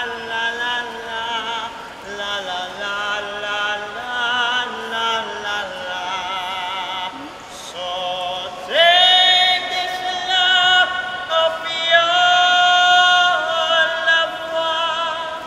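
A gondolier singing in a full, operatic style with vibrato, then a loud high note held from about nine seconds in.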